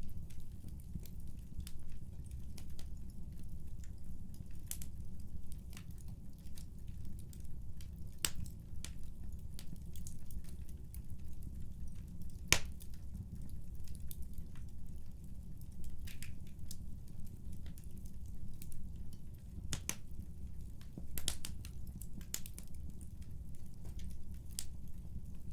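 Wood fire in a fireplace burning, with a low steady rumble and frequent sharp crackles and pops, one louder pop about halfway through.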